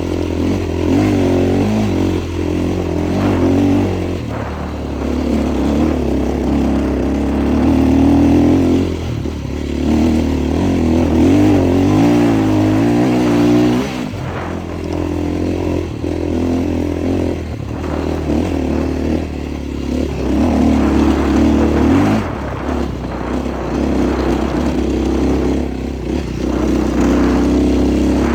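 Husqvarna 450cc single-cylinder four-stroke dirt bike engine running under load while being ridden, its revs rising and falling repeatedly as the throttle is worked.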